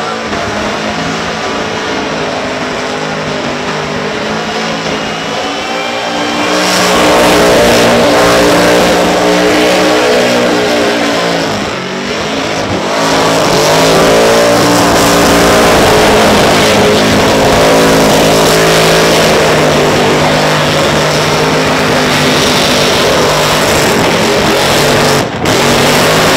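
Supercharged big-block Chevrolet V8 in a truck running hard at high revs during a burnout. It gets louder about six and a half seconds in, dips briefly around twelve seconds, then holds loud and high again.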